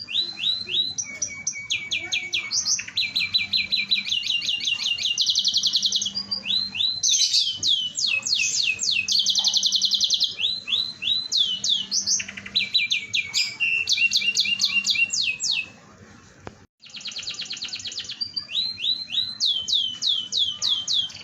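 Canary singing a long lure song: fast trills and runs of rapidly repeated sweeping notes, phrase after phrase, with a brief pause about three-quarters of the way through.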